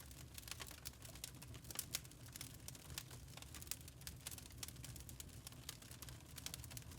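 Wood fire in a fireplace crackling: many small irregular pops and snaps over a low steady rumble of the flames, a few pops louder than the rest.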